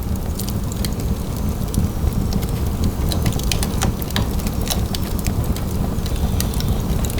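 Fire burning in a fireplace: a steady low rumble of flames with frequent sharp crackles and pops, several a second, scattered irregularly.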